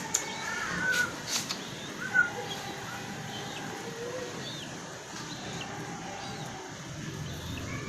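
Two-week-old common moorhen chick giving thin, high peeps now and then, each a short downward-curving note. A few sharp clicks come about a second in, and a louder knock a little after two seconds.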